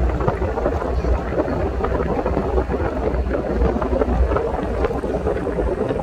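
A 4x4 truck driving along a rough jungle road, heard from on board: a steady low rumble of engine and road noise, with wind buffeting the microphone and a few light knocks.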